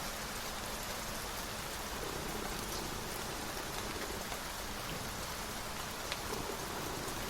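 Steady rain, a constant even hiss with faint scattered drop ticks.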